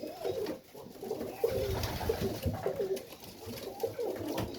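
Several domestic pigeons cooing, their short repeated coos overlapping one another.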